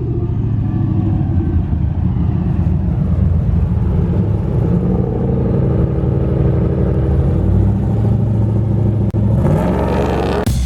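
Supercharged street truck's engine running hard with a steady heavy rumble, then rising in pitch over the last second or so before cutting off suddenly.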